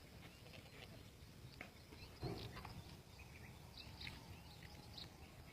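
Faint background with scattered short, high chirps and a single dull thump a little over two seconds in.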